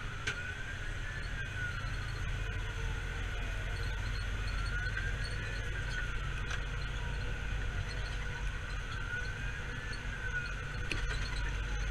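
A fire engine's electronic siren wailing, its pitch rising and falling slowly about every four seconds, over the steady low rumble of the truck's engine.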